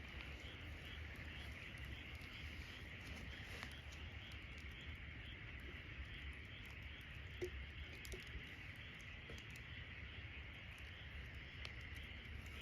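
Campfire burning with a few small crackles and pops, over a steady high chirring of insects that pulses about four times a second.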